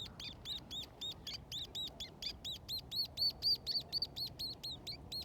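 A small bird calling in a rapid, even series of high, identical chirps, about five a second, getting louder about halfway through.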